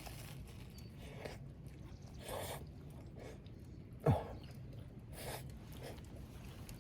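A person chewing food with soft mouth noises, and about four seconds in a short vocal sound that falls sharply in pitch.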